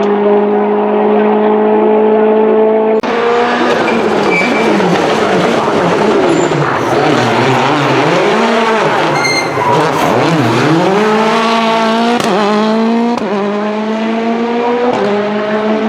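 Citroën DS3 WRC rally car's 1.6-litre turbocharged four-cylinder engine, held at steady high revs, then after an abrupt change revving rapidly up and down, and near the end accelerating hard through several upshifts.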